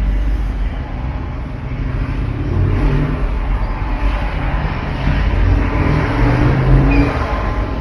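Road traffic: car engines running and passing close by, with one swelling as it accelerates partway through.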